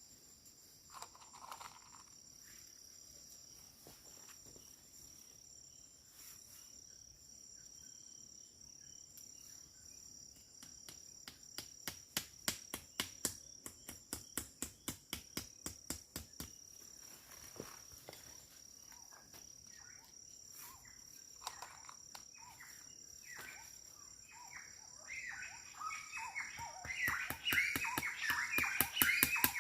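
Steady high-pitched chorus of crickets or other forest insects. A run of sharp ticks, about three a second, comes in the middle, and birds start chirping near the end.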